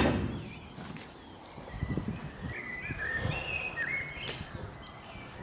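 A loud knock at the start dies away, then small birds chirp in short, rising and falling phrases about two to four seconds in, over a few dull low thumps.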